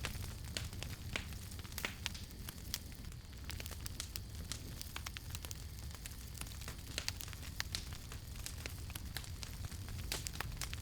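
Wood fire crackling, with frequent irregular sharp pops and snaps over a steady low rumble of the burning.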